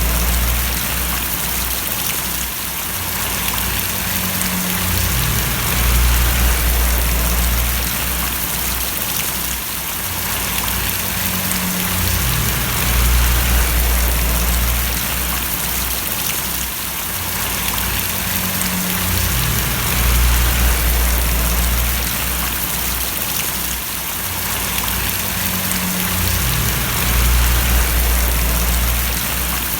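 Steady rain falling and splashing, an even hiss with a low rumble that swells and fades about every seven seconds.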